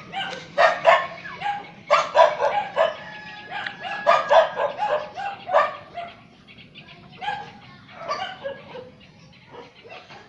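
A dog barking repeatedly in short, sharp barks, rapid and loud at first and growing sparser and fainter after about six seconds.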